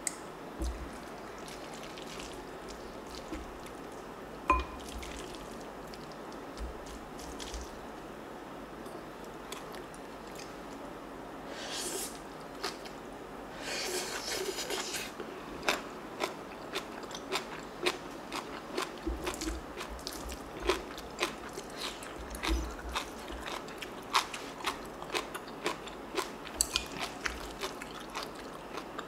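Close-miked eating sounds: chewing and crisp crunching of soybean sprout rice. Sparse at first, then dense crunches several a second from about halfway through.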